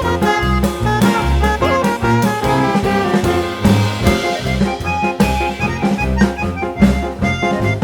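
Upbeat jazzy background music with brass and saxophone over a steady bass beat.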